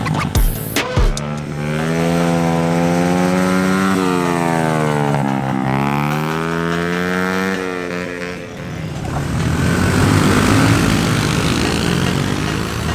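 Pit bike engine running, its pitch sagging and then climbing again over several seconds. In the last few seconds it gives way to a rougher, noisier engine sound.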